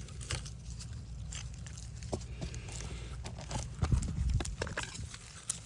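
Irregular light clicks and taps of tools and cable being handled during a coaxial cable repair, over a steady low rumble, with a brief flurry of louder knocks about two-thirds of the way through.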